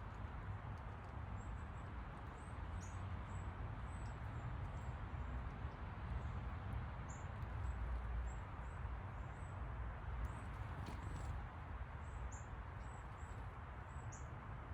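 Small songbirds chirping: many short, high chirps, several a second at times, over a steady low outdoor rumble.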